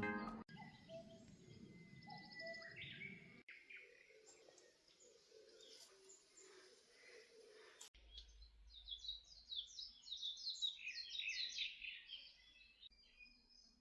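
Faint outdoor ambience with birds calling. About eight seconds in, a run of rapid high chirps lasts about five seconds.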